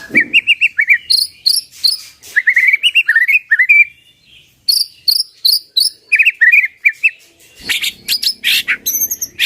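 White-rumped shama (murai batu) singing: fast, varied phrases of chirps and up-slurred whistles, with a brief pause about four seconds in and some harsher, noisier notes near the end.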